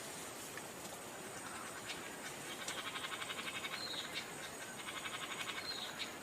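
Rapid pulsing animal call, about ten pulses a second, repeated in trains lasting a second or more, starting a little before halfway through, over a steady thin high whine and hiss.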